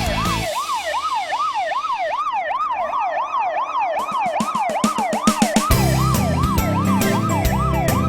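Fire engine siren on a fast yelp, its pitch rising and falling a little over twice a second. A low rumble joins in about six seconds in.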